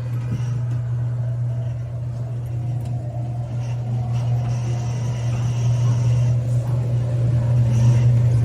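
Ride vehicle of a dark ride rolling along its track: a steady low hum and rumble that grows a little louder near the end.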